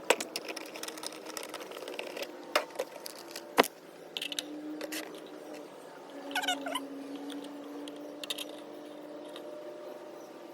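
Engine oil being added to the engine, with sharp clicks and knocks from handling the oil container and filler, the loudest near the start and at about two and a half and three and a half seconds. A brief wavering squeal comes about six and a half seconds in.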